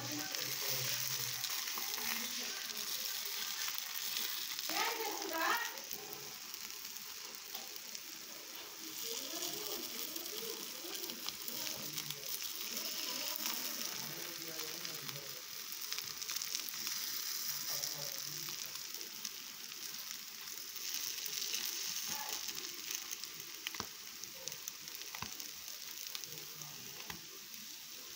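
Dosa-batter paniyaram frying in oil in the cups of a paniyaram pan, sizzling steadily. Light clicks and scrapes of a wooden skewer come and go as the balls are turned over.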